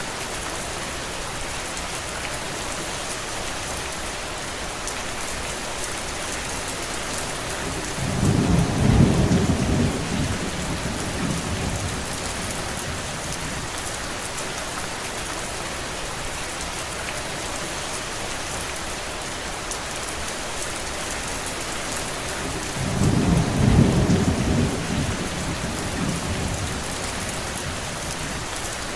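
Steady heavy rain falling, an even hiss, with two low rumbles of two to three seconds each, about fifteen seconds apart, that swell and fade and stand out as the loudest moments.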